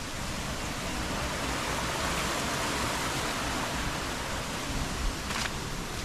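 Steady rush of running water, swelling in the middle and easing again, with a brief sharp tap about five seconds in.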